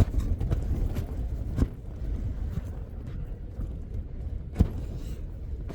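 Storm wind buffeting a Hilleberg Jannu tent: a steady low rumble of wind, with a few sharp snaps or taps against the fabric.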